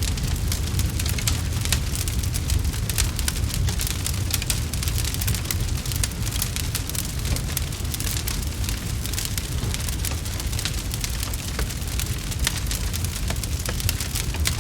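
Wood fire crackling, with dense small pops and snaps over a steady low rumble.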